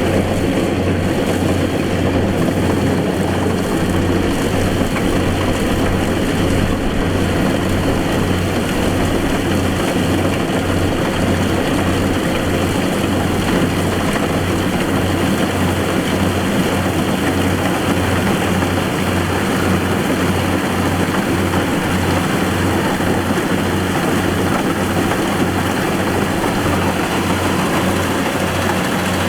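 Kubota DC-70 combine harvester running steadily: engine and threshing machinery make a dense, loud noise with a low, regular pulsing throb.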